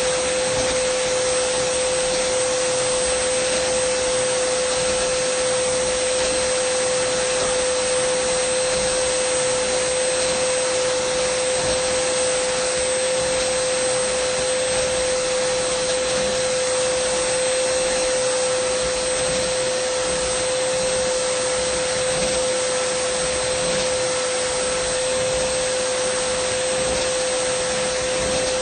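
Dyson vacuum cleaner running steadily: a constant rushing of air with a high motor whine, unchanging throughout.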